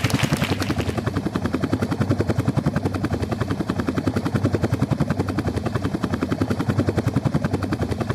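Helicopter rotor chopping close by: a rapid, even beat of blade pulses. A broad rush of noise fades out in the first second.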